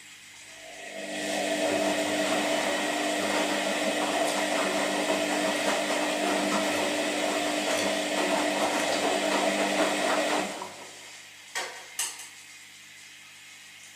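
Washing machine motor starting up, whirring loudly for about ten seconds, then stopping abruptly, over a low steady hum. Two sharp clicks follow shortly after it stops.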